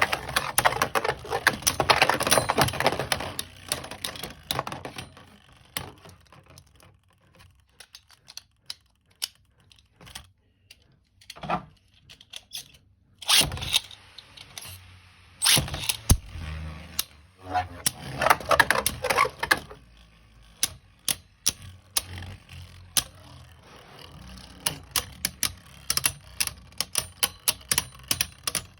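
Beyblade spinning tops clashing in a plastic stadium: a run of sharp plastic clicks and knocks, with spells of dense rattling near the start and again about two-thirds of the way in, and a few louder knocks in the middle.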